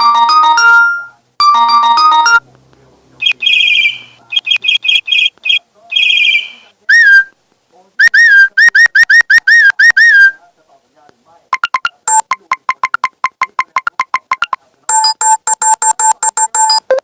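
A series of different short electronic notification and ringtone sounds from the LINE messaging app, played one after another with short gaps: chiming melodic jingles, quick chirping trills, a warbling tone that wobbles up and down, and runs of rapid beeps.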